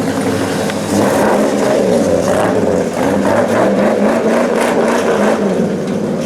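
Several hobby-class race trucks' engines running hard together, their pitches rising and falling as the trucks accelerate and lift.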